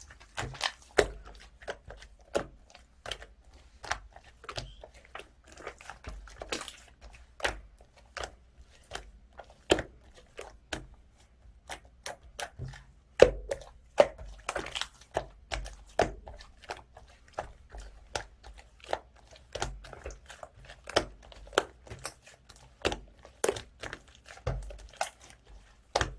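Blue clay-mixed 'ice cream' slime being squished and stretched by hand, giving irregular sticky pops and clicks about one to two a second.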